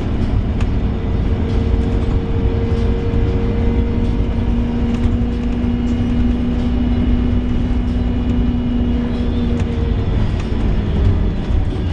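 Inside a moving Scania Omnilink K230UB single-deck bus: steady low engine and road rumble, with a steady groaning tone that sets in about a second and a half in and stops near the end.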